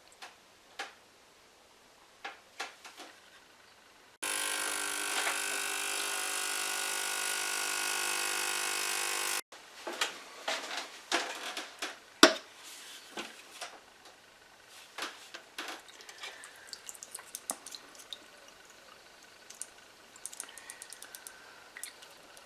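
Ultrasonic cleaner running with a steady buzzing hum for about five seconds, starting and stopping abruptly. Before and after it, light clicks and knocks of small parts being handled.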